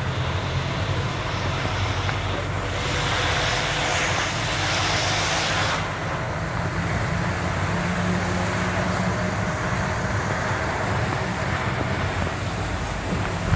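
A vehicle driving on a road: steady engine hum and road noise, with a louder hiss lasting about three seconds in the first half.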